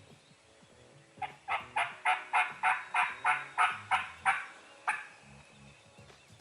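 Turkey yelping: a run of about a dozen clear yelps, three to four a second, with the last one set slightly apart.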